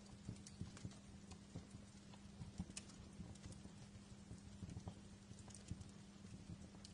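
Wood fire in a fireplace crackling: faint, irregular pops and snaps scattered a few times a second over a steady low hum.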